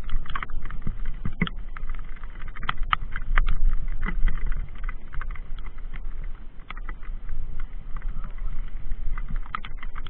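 Mountain bike rattling over rough ground, with many irregular knocks and clicks and a steady low rumble of wind on the microphone.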